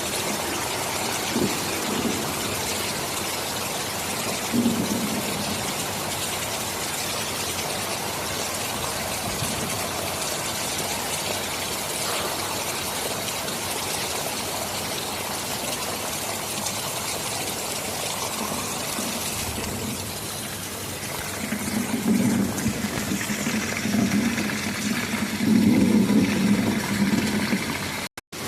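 Steady heavy rain, an even hiss, with low rumbles coming and going that grow louder from about two-thirds of the way in. The sound cuts out for a moment just before the end.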